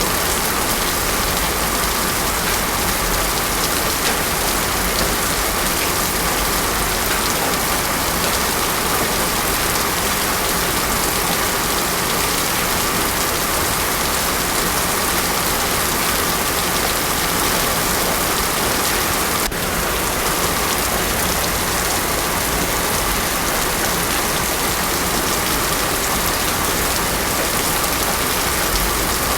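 Heavy rain falling steadily on a paved road, a dense even hiss without thunder.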